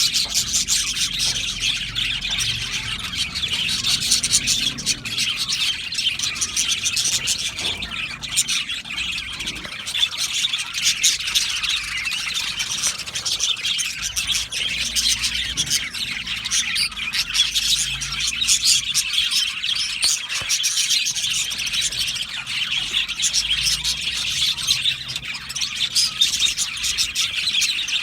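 A colony of budgerigars in an aviary chattering and chirping continuously, many birds calling over one another in a dense, high-pitched warble.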